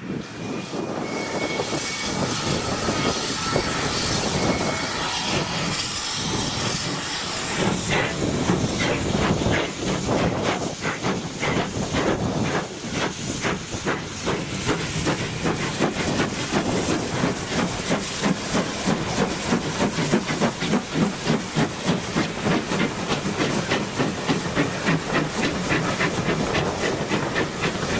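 Steam locomotive hissing steam as it passes, with a rapid, even beat growing clearer through the second half.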